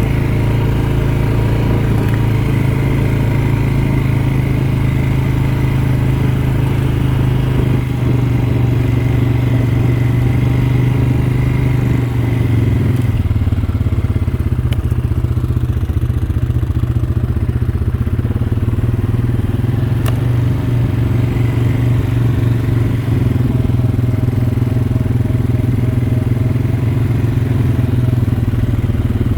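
ATV engine running steadily under way, a continuous low engine drone with no let-up.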